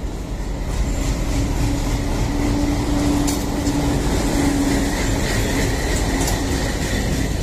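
Passenger train moving on the rails: a loud steady rumble with a low hum through the first half or so and a few light clicks, and a faint high squeal in the second half.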